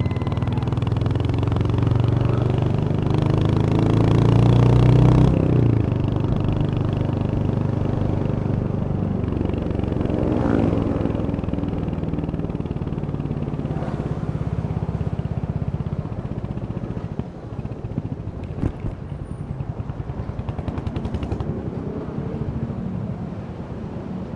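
Royal Enfield Hunter 350's single-cylinder engine on the move. It revs up with rising pitch for about five seconds, then drops sharply at a gear change. It rises again briefly around ten seconds in, and later settles to a lower, uneven beat as it eases off.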